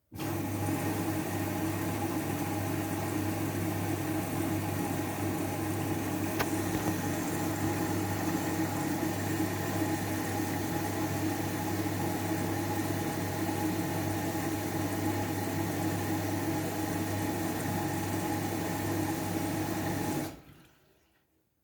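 Washing machine running with water rushing through it over a steady low hum, stopping abruptly near the end.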